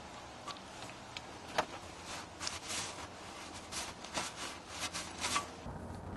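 Scattered clicks, clinks and short scrapes of hand tools and parts being handled while working on a car's oil drain and filter, about a dozen over five seconds. Near the end a low steady hum comes in.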